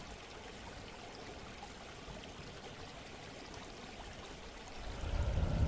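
Steady running water, like a flowing stream. About five seconds in it swells louder and deeper.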